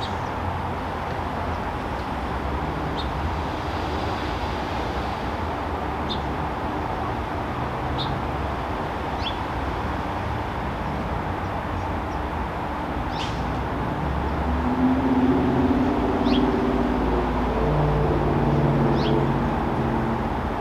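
Backyard outdoor ambience: a steady low rumble of distant traffic, with short high bird chirps every second or two. About two-thirds of the way in, a louder low engine drone swells up and runs until near the end, like a vehicle passing close by.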